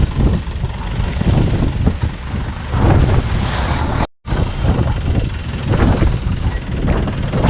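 Wind buffeting the microphone over a longtail boat's engine and the choppy sea. The sound cuts out for a moment about four seconds in.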